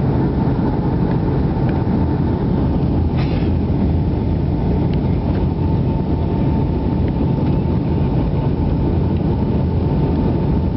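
Steady loud rumble of cabin noise inside a Boeing 757 airliner as it lands, with a faint steady whine above it and a short hiss about three seconds in.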